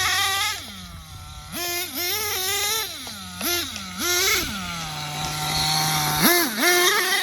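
Nitro two-stroke glow engine of an RC monster truck revving up and down in several quick bursts of throttle as it is driven. Its pitch holds steady and lower for over a second past the middle, then climbs sharply near the end.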